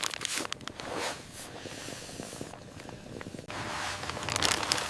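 Rustling and light clicking of hands handling gear and food packaging: a few short clicks in the first second, softer rustle, then a louder stretch of rustling near the end.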